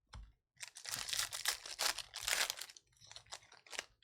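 Foil wrapper of a 2020 Bowman Baseball Jumbo pack being torn open and crinkled by hand for about two seconds, followed by a few short sharp clicks and rustles as the cards are handled.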